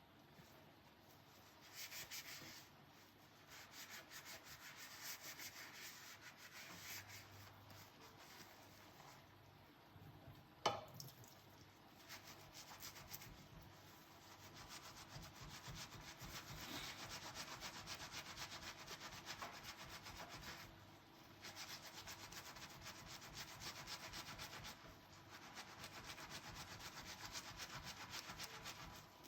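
Dishes being scrubbed by hand with a sponge in fast, quiet rubbing strokes, in runs of a few seconds with short pauses. About a third of the way in there is a single sharp clink of a dish.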